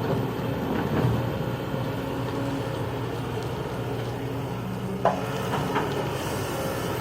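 Heavy construction machinery's diesel engine running steadily, with a knock about a second in and a sharper clank about five seconds in.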